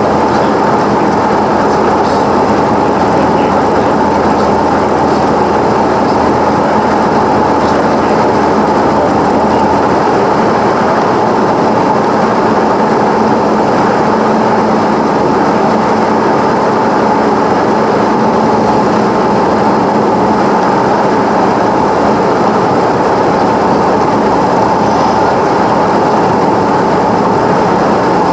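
Cessna 172's engine and propeller running steadily, heard as a loud, unbroken drone inside the cabin.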